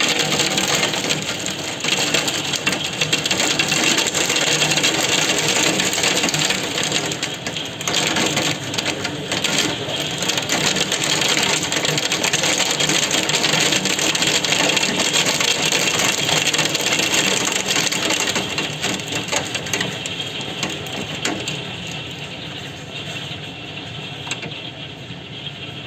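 Squall of heavy rain in strong wind: a dense, rapid patter of countless drops, easing a little in the last third.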